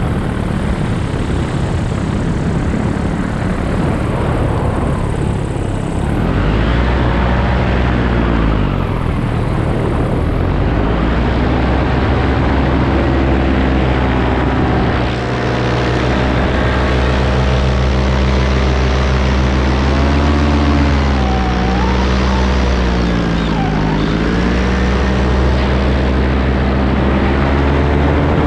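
Paramotor engine and propeller running steadily in flight, with a rushing noise over it. The engine's pitch dips and rises again several times.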